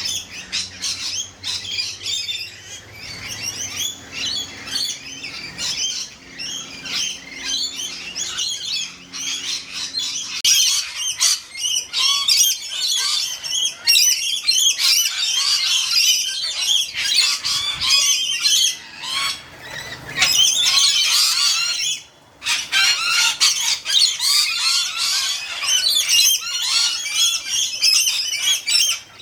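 A dense chorus of many birds screeching and chattering at once, with calls overlapping continuously and a brief break about 22 seconds in.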